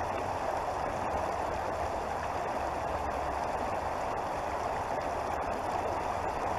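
Creek water flowing, an even, continuous rushing sound.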